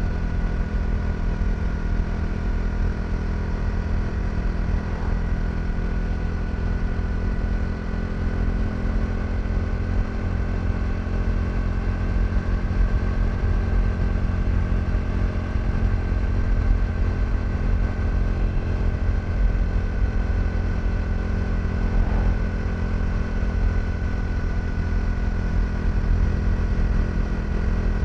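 KTM 390 Duke's single-cylinder engine running steadily at an even cruising pitch, with no sharp revving, over a constant low rumble.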